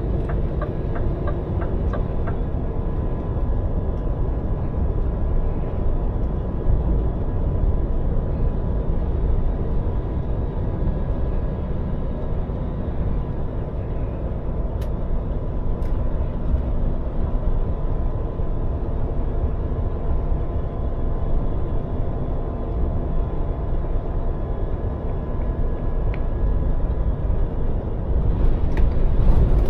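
Scania lorry's diesel engine running under way, a steady deep rumble with road noise. A quick ticking, about three a second, in the first two seconds, and a hiss rising near the end.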